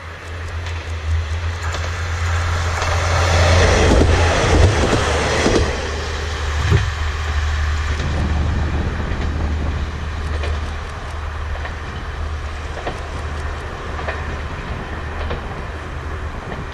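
Kanto Railway diesel railcar passing with a steady low engine rumble and wheels clicking over the rail joints. It grows loud over the first four or five seconds, then eases off while still running.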